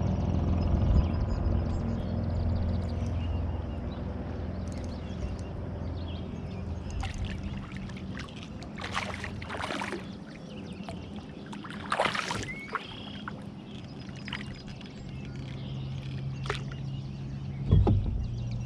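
Water lapping and knocking against a kayak hull, with a low rumble that fades over the first few seconds and a few short, sharp splashes about halfway through.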